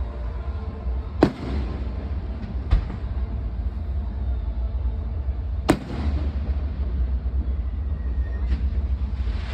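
Firework shells bursting: four sharp bangs a second or more apart, the loudest just past halfway, over a steady low rumble.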